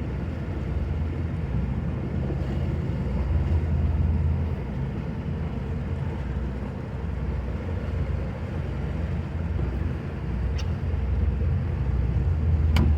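A watercraft engine running steadily at low speed with a low rumble, dropping off sharply near the end.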